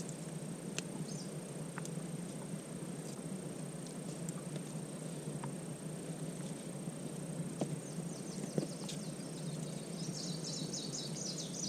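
Forest ambience: a steady high insect buzz over a low background hiss, with scattered faint clicks. Near the end there is a quick run of high chirps.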